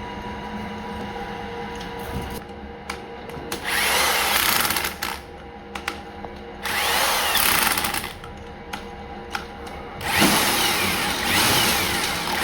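A power tool running in three bursts of one and a half to two seconds each over a steady workshop machine hum. The third burst carries on to the end.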